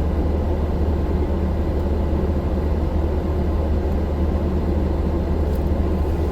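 Steady rumbling wind buffeting the microphone, with the heaviest noise deep in the bass and no breaks.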